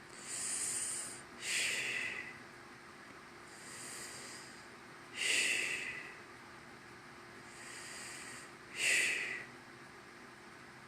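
A person breathing slowly and heavily as if asleep, in the manner of snoring: three breaths about three and a half seconds apart, each a soft hiss followed by a louder one.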